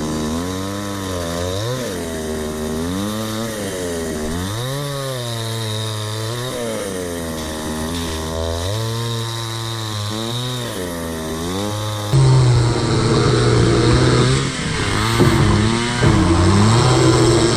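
Chainsaw cutting a gum log, its engine revving up and down over and over. About twelve seconds in, the sound becomes abruptly louder.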